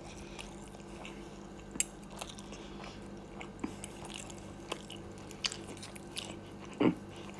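A person quietly chewing food, with a few soft clicks, one sharper about two seconds in, over a low steady hum.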